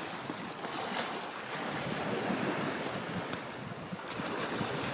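Sea waves washing in at the shoreline, a steady rush of surf, with wind on the microphone.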